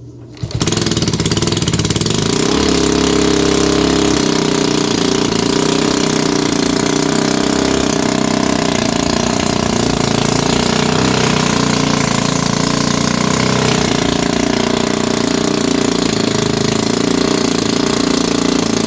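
Modified Briggs & Stratton 206cc single-cylinder engine running with no flywheel, at about 15:1 compression on a Honda GX-35 piston. It comes in loud about half a second in and then runs steadily.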